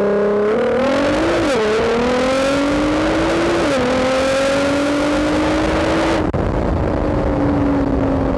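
GT-R engine and exhaust fitted with mid pipes, accelerating through the gears. The revs climb and drop with an upshift about a second and a half in and again near four seconds in, then hold and slowly ease off.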